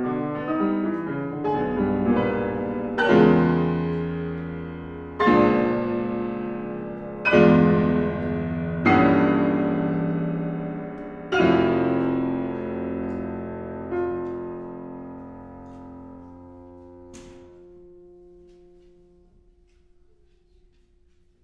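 Piano playing quick notes, then a series of loud, struck chords left ringing with the sustain pedal, each fading before the next. The music dies away slowly as the piece ends, with a sharp click about seventeen seconds in.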